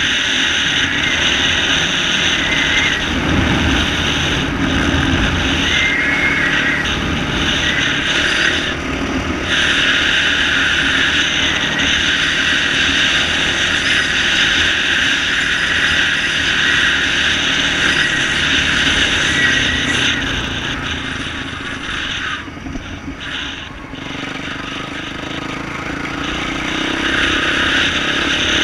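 A 2012 Yamaha YZ450F dirt bike's single-cylinder four-stroke engine with an aftermarket exhaust, running under changing throttle while ridden. It drops quieter for several seconds about three-quarters of the way through, then picks up again near the end.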